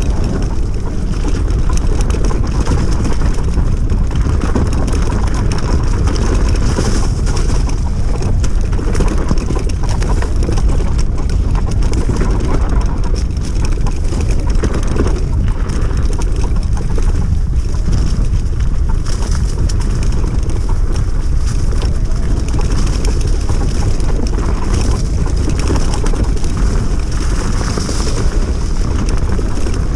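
Ride noise from an electric enduro bike with a 3000 W hub motor: wind rushing over the microphone and tyres rolling, a steady low rumble with hiss above it and no engine note.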